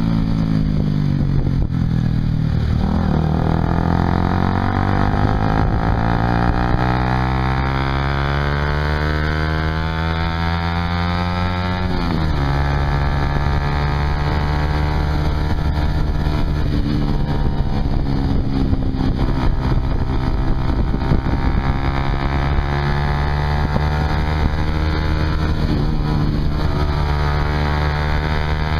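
Honda CBR150R's single-cylinder engine running through a Yoshimura aftermarket exhaust while riding. The revs drop briefly, then climb steadily for about nine seconds, fall sharply at a gear change about twelve seconds in, and hold fairly steady afterwards.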